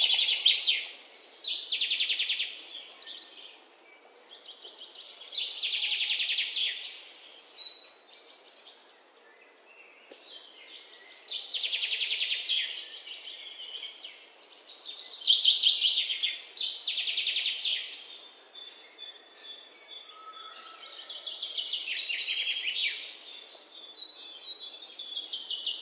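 Birdsong: fast trilled phrases of high notes, repeated every few seconds with short quiet gaps between them.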